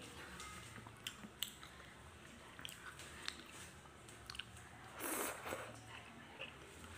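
A person faintly chewing and biting a mouthful of stir-fried instant noodles (pancit canton), with scattered small clicks. About five seconds in comes a short slurp as a bundle of noodles is taken in.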